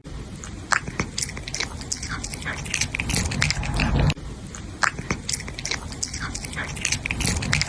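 A cat chewing and biting, close up: a dense run of irregular, wet, crunchy clicks with a brief break about four seconds in.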